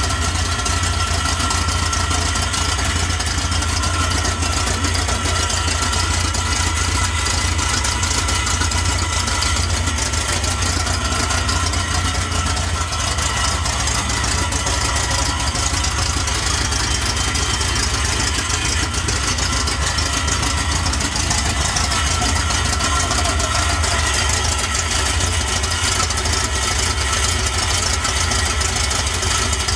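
Chevrolet 250 inline-six with a lift cam, 4-barrel carb, Offenhauser intake and Hedman headers, idling steadily.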